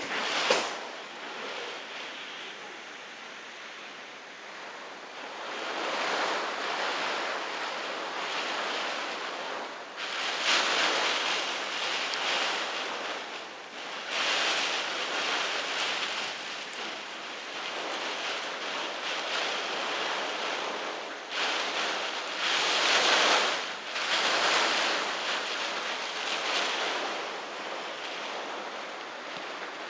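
Typhoon wind blowing in strong gusts that swell and ease every few seconds, a steady rushing noise with wind buffeting the microphone.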